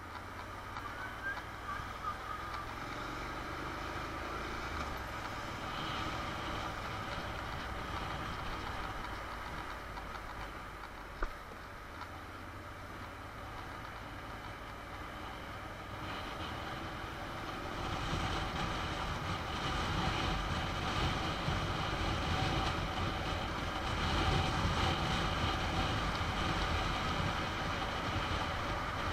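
Honda NC750 motorcycle's parallel-twin engine running in city traffic, steady at first, then louder and fuller from about eighteen seconds in. There is one short click about eleven seconds in.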